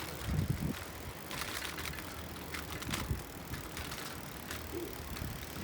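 Bicycle riding along: steady rolling noise with rattling clicks, and low thumps about half a second in and near three seconds.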